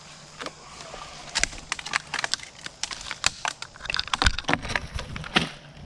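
Footsteps through brush and fallen branches, with twigs snapping and cracking underfoot in many irregular sharp snaps.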